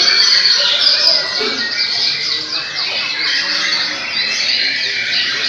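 Several caged white-rumped shamas (murai batu) singing at once in a songbird contest: a dense, overlapping mix of loud whistles and fast chattering phrases.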